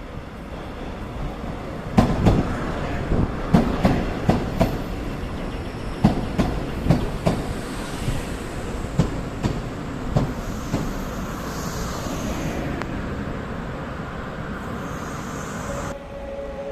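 A train passing, its wheels knocking over rail joints in quick clusters from about two seconds in, over a steady running rumble that evens out after the knocks stop. Near the end the rumble drops away and a steady tone begins.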